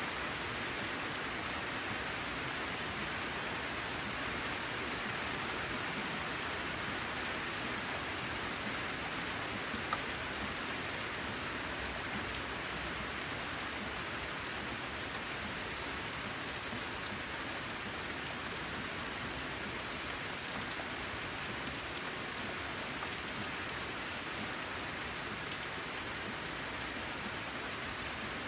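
Steady rain falling on a corrugated metal roof, an even hiss with a few sharper single drops standing out now and then.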